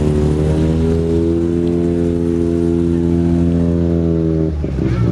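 Car engine and exhaust droning loudly at a steady, held pitch, then breaking into an uneven, shifting note near the end as the throttle changes.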